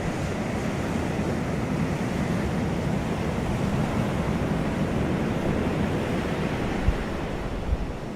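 Steady wind rushing over the microphone, with two brief low bumps near the end.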